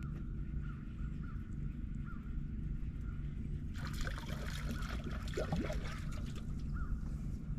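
Distant crows calling in short repeated caws over a steady low hum. About halfway in, a rushing, crackling noise starts and runs on.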